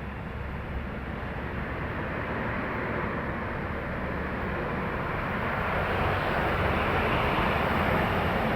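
Highway truck traffic: heavy vehicles running past with steady engine and tyre noise, swelling louder over the last few seconds as one draws near.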